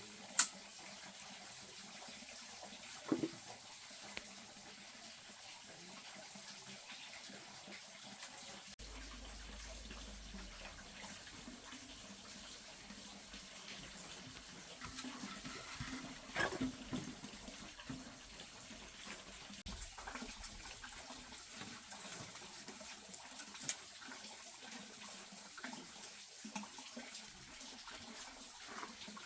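Faint steady trickle of running water, with a few sharp knocks scattered through it, the loudest about half a second in.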